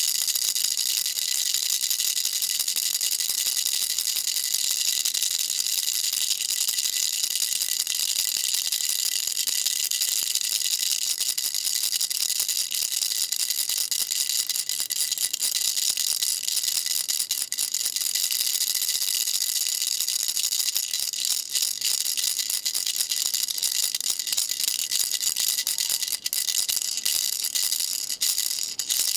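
Baby rattle shaken without pause, a dense, steady, high-pitched rattling. It breaks up with brief gaps near the end.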